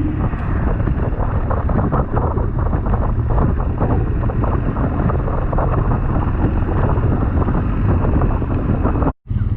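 Wind rushing over the microphone on a moving motorcycle, over the low rumble of a BMW R1200GS boxer-twin engine. The sound cuts out for a moment near the end.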